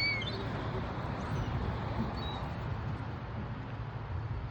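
A few short, high bird calls, one near the start, one rising call about a second in and one a little after two seconds, over a steady background rush.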